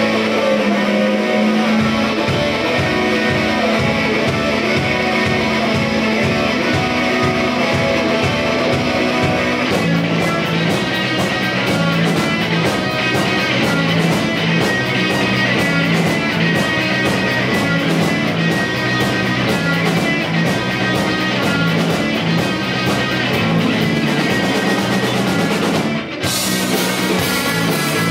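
Live rock band playing an instrumental intro with electric guitar, bass and drums. The sound fills out with cymbals about ten seconds in, and there is a brief break near the end before the full band comes back in.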